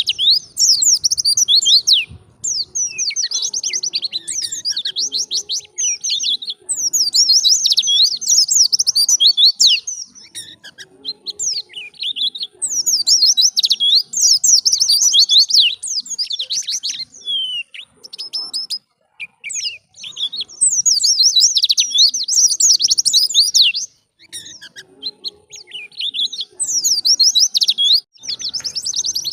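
White-eye (pleci) singing a fast, high, tumbling twitter in long bouts of several seconds, with short pauses between them.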